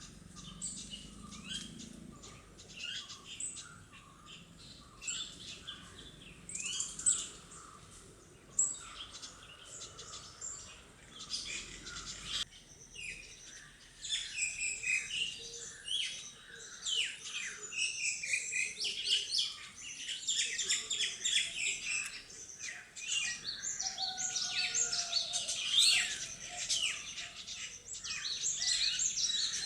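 Many birds chirping and calling over one another, quick high chirps and short trills. The chorus becomes busier and louder about halfway through.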